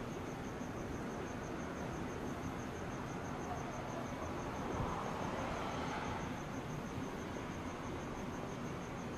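Cricket chirping steadily, a high pulsing note repeating several times a second, over a background hiss that swells briefly about five seconds in.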